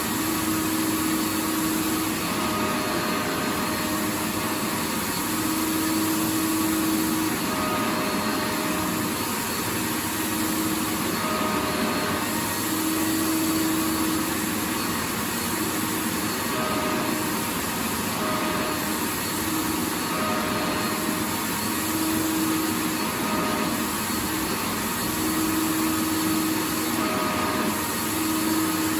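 Vacuum cleaner running steadily: a constant rushing motor-and-airflow noise, with a low humming tone that swells and fades every second or two.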